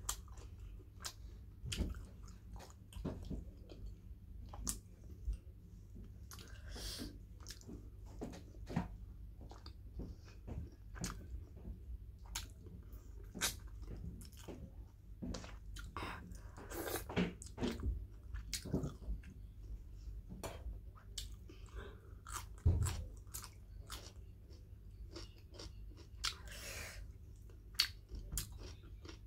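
A person chewing mouthfuls of pork curry close to the microphone: irregular wet smacks and sharp clicks of chewing over a low steady hum.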